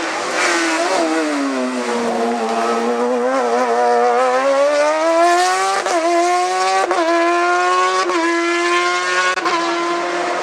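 Hillclimb race car engine slowing for a bend, then accelerating hard, its revs climbing through three quick upshifts in the second half.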